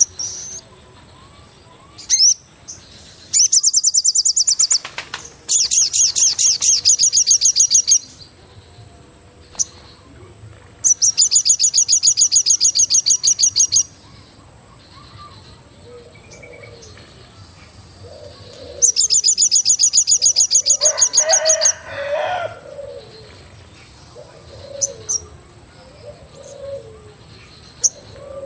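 Forest birds singing: loud, fast high trills lasting two to three seconds each, repeated four times, with soft low dove-like cooing notes in the gaps.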